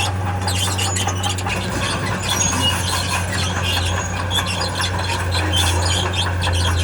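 Steel crawler tracks of a heavy machine squealing and squeaking in a rapid, irregular run of high chirps over the steady drone of a diesel engine.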